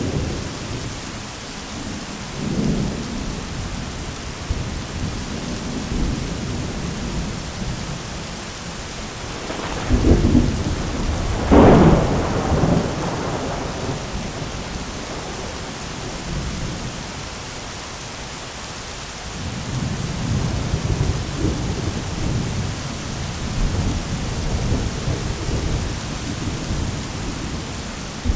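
Steady rain with rolling thunder. About ten seconds in, two sharp, louder thunderclaps come close together, and a long low rumble of thunder sets in near the end.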